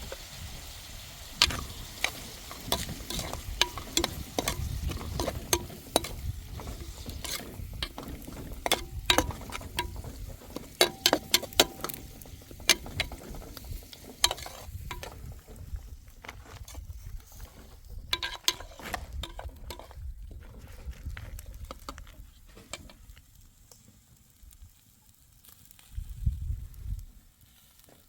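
Irregular clinks and scrapes of a utensil stirring food in a frying pan, over a light sizzle. The clatter thins out and goes quiet about five-sixths of the way through.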